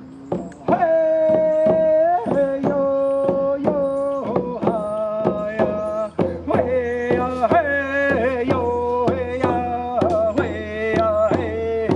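A ceremonial song: one voice singing long held notes that step up and down over a steady hand-drum beat of about three to four strikes a second. The drum is heard alone at first and the singing comes in about a second in.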